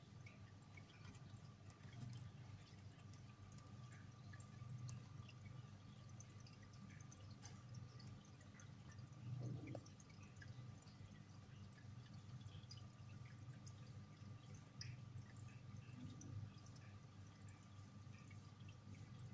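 Faint dripping and trickling of aquarium water over a steady low hum, with small scattered drips and a slightly louder splash about halfway through.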